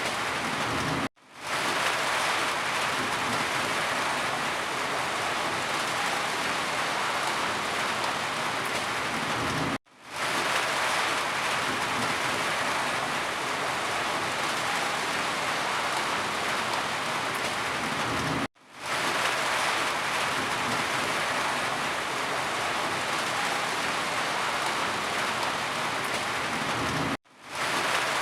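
Steady rain falling, with the sound cutting out for an instant about every nine seconds and fading straight back in.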